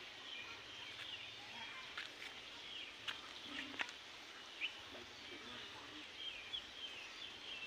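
Birds chirping now and then over a faint steady outdoor hiss, with a few short sharp clicks around the middle.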